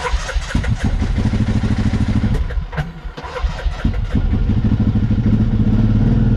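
A 2014 TGB Blade quad bike's engine being started with the choke on. It catches suddenly and runs unevenly for about four seconds, faltering briefly partway through, then settles into a steady idle.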